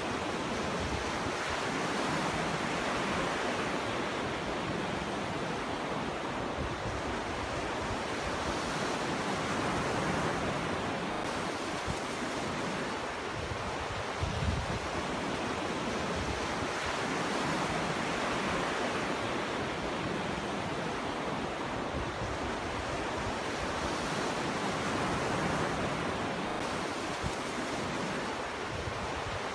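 Ocean surf on a beach: an even wash of waves that swells and eases every few seconds, with brief low rumbles of wind on the microphone.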